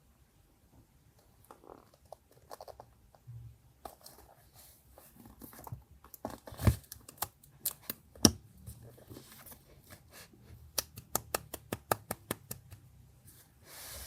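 Close-up paper handling for a journal collage: paper rustling and crinkling, with sharp taps and clicks. The loudest taps come about halfway through, and a quick run of clicks follows near the end.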